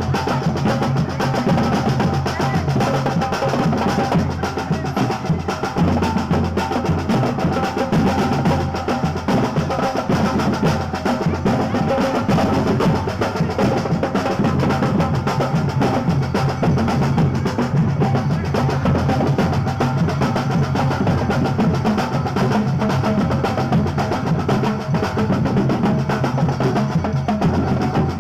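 Brass band playing, with snare and bass drums beating without a break under held brass notes.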